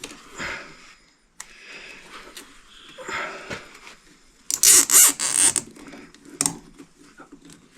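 Plastic zip tie rasping and scraping as it is worked around hoses, with a loud rasp lasting about a second midway and a few short clicks.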